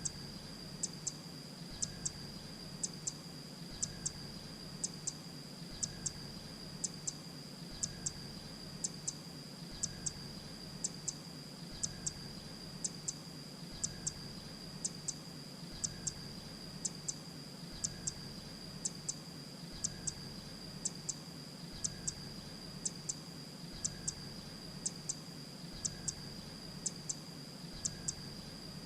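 Grey-breasted prinia calling: short, high double notes repeated evenly about once a second, over a steady high-pitched tone.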